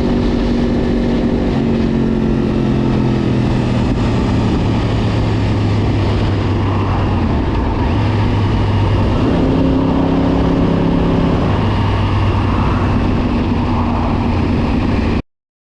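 Yamaha R1's inline-four engine running under way on the road, mixed with rushing wind noise; its pitch eases down a few seconds in and rises again near the end, and the sound cuts off abruptly.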